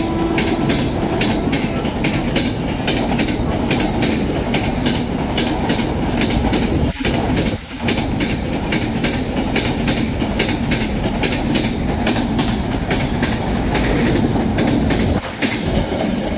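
A train passing close by at speed, its wheels clattering over rail joints in a rapid, even rhythm over a loud, steady rumble.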